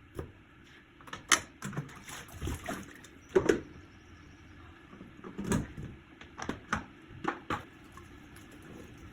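Kitchen handling noises: a series of irregular knocks and clicks, as of things being picked up and set down. The loudest knocks come about a second and a half in and again near three and a half seconds, with a quicker cluster in the second half.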